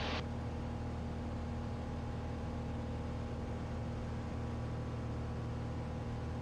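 Steady drone of a Cessna 182L Skylane's Continental O-470 engine (Northpoint XP470) and propeller at reduced downwind power, about 20 inches of manifold pressure and 2350 RPM, with the mixture just leaned. The pitch holds level throughout.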